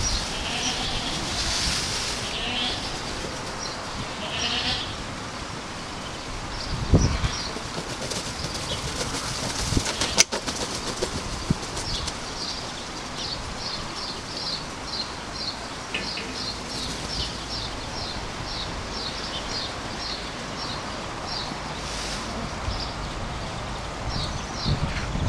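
Small bird chirping in a long run of short, high notes, several a second, through most of the stretch. There is a low thump about seven seconds in and a sharp click about ten seconds in.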